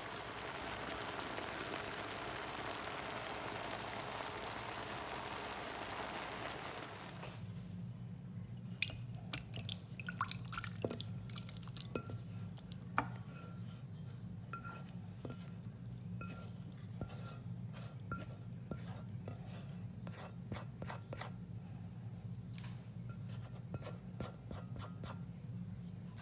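Spoon and fork clicking and scraping against a plate while someone eats, in scattered light taps over a low steady hum. For the first several seconds a steady hiss covers it, then cuts off suddenly.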